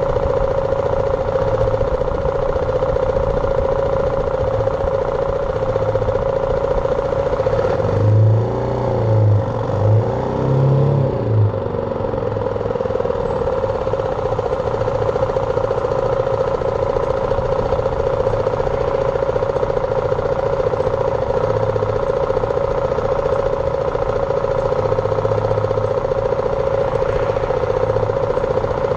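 BMW G310R's single-cylinder engine running steadily under way, with a steady drone. For a few seconds, about eight seconds in, the engine note sweeps up and down and pulses louder before settling back to the steady drone.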